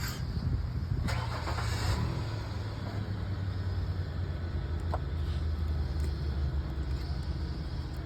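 BMW engine running steadily, with a brief rush of hiss about a second in; the engine is being diagnosed for a misfire on cylinder 2.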